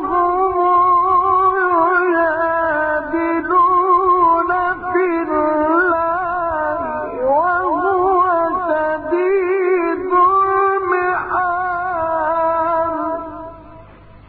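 A male Quran reciter's voice in the Egyptian mujawwad style, carrying one long ornamented melismatic line with the pitch wavering and turning. The line ends about a second before the close.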